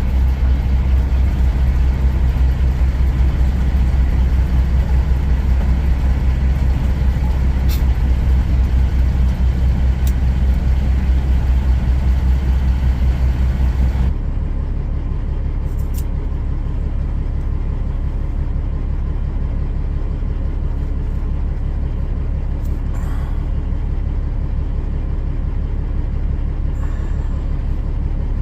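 Kenworth semi-truck's diesel engine running steadily, a deep hum. About halfway through it drops a little quieter and duller, with a few faint clicks.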